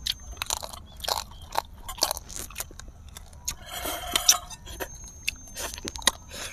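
Crunchy chewing close to the microphone: fried pork rind (chicharron) being bitten and chewed, with irregular crisp crackles and a denser stretch of crunching about four seconds in.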